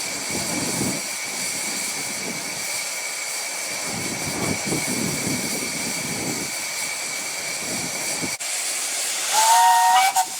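Steam locomotive of the 15-inch-gauge Romney, Hythe and Dymchurch Railway hissing steam, with a short two-note whistle blast near the end.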